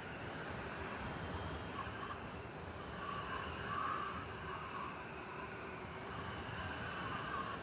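Blizzard wind blowing steadily in a city street, with a low rumble underneath and soft swells in the gusts.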